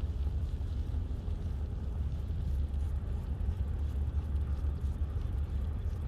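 Steady low rumble of wind buffeting the microphone on a moving bicycle, with a faint even hiss above it.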